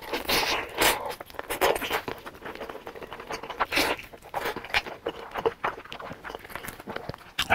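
Close-miked biting and chewing of a sauce-coated fried chicken drumstick: irregular wet mouth smacks and clicks as the meat is pulled off the bone, with one sharper click near the end.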